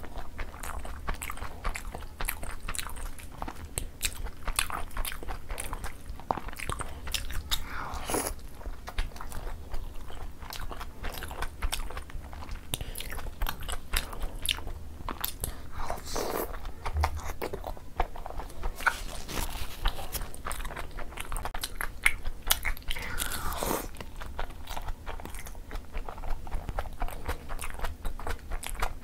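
Close-miked eating sounds: wet chewing, biting and lip-smacking on sauce-covered steamed dumplings, with dense small clicks throughout.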